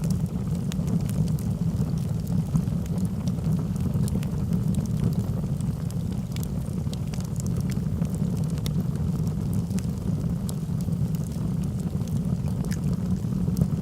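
Logs burning in a fireplace: a steady low rumble of the fire with scattered sharp crackles and pops throughout.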